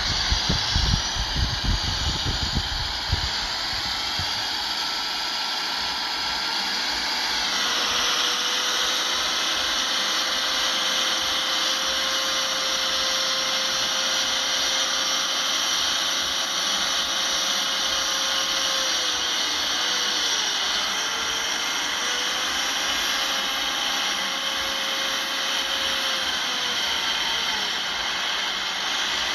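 Heavy earthmoving machinery running steadily under power, with a loud high whine and hiss over a held engine tone. A low rumble in the first few seconds fades, and the engine pitch dips briefly a couple of times later on.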